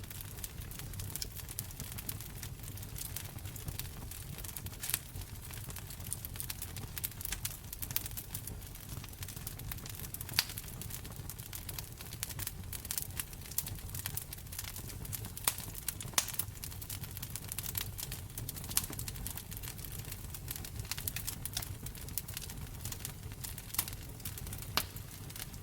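Wood fire crackling in a fireplace: a dense, irregular run of small pops and snaps, with a handful of sharper, louder snaps scattered through, over a steady low rumble.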